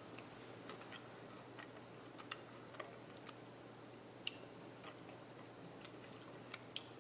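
Faint mouth clicks from a person quietly chewing soft divinity candy, a few sharp ticks scattered through, over a low steady hum.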